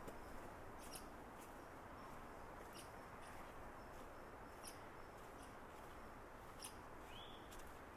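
Faint outdoor ambience: small birds giving short high chirps about every two seconds, with a brief sliding note near the end, over a low steady rush.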